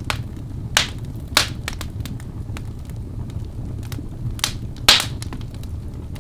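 Wood logs burning in a fireplace: irregular sharp crackles and pops over a steady low rumble of the flames, with the loudest pop about five seconds in.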